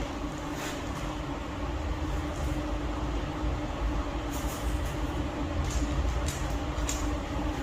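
Keyang cordless impact driver running and hammering steadily, with a low rattling rumble and a steady motor whine, as it drives an anchor into the ceiling.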